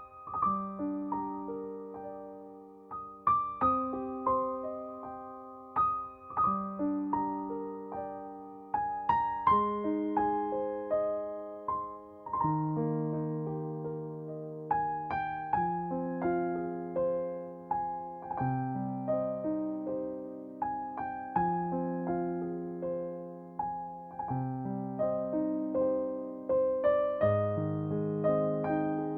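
Calm, slow piano music: soft chords and single notes struck every second or so and left to fade.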